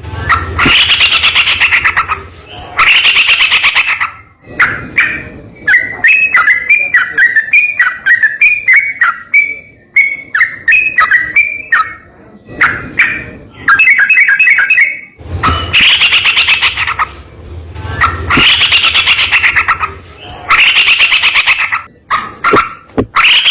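Trucukan (yellow-vented bulbul) calling: loud, harsh bursts of about a second and a half come near the start and repeat several times in the last third. Between them, from about four seconds in, runs a long string of quick chirping notes.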